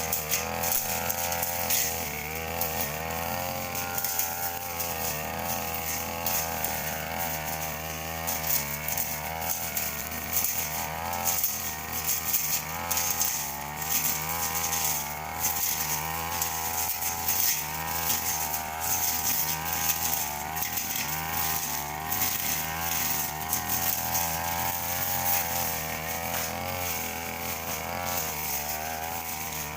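Petrol brush cutter running at working throttle while cutting grass. Its engine pitch wavers up and down continuously as the load changes.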